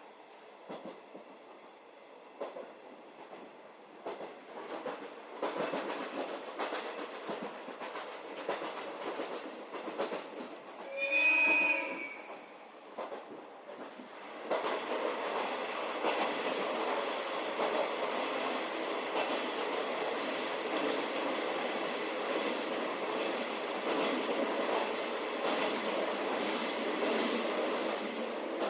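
Running noise of a 711 series electric train heard from inside a passenger car: wheels rolling on the rails, quieter at first. A train horn sounds briefly about eleven seconds in. From about halfway the running noise becomes louder and steady.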